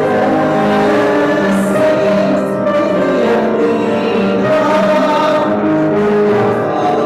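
Congregation singing a hymn with instrumental accompaniment, sustained notes held without a break.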